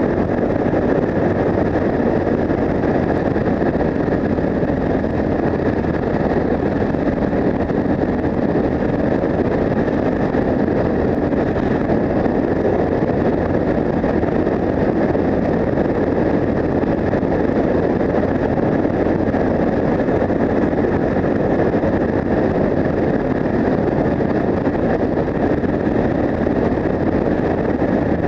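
Yamaha TW 125's single-cylinder four-stroke engine, fitted with an Akrapovic exhaust, running steadily at a constant cruising speed, with wind rushing over the microphone. No gear changes or revving.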